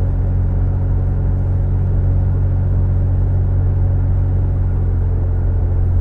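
Toyota Tacoma 3.5L V6 running through an MBRP XP Series single exhaust with a turn-down tip that exits just ahead of the rear axle. It holds a steady, unchanging low drone with no revving.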